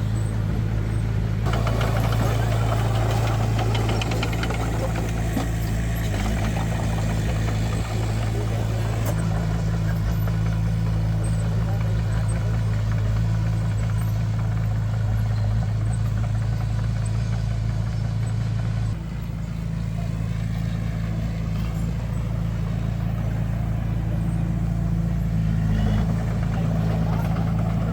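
Heavy diesel engine of construction machinery running steadily, with a low even hum. About two-thirds of the way through, the level dips a little and the pitch shifts as the engine settles to a lower note.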